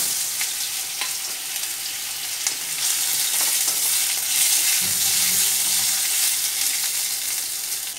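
Slices of peeled green mango sizzling in hot mustard oil with mustard seeds and dried red chillies in a steel kadai, the oil spitting steadily as the fruit fries. The slices are stirred with a metal spoon, with a few faint clicks of spoon on pan.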